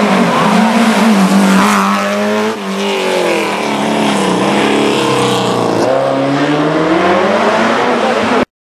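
Rally car engine revving hard through the gears, its pitch repeatedly climbing and dropping with each shift and lift. The sound cuts out abruptly near the end.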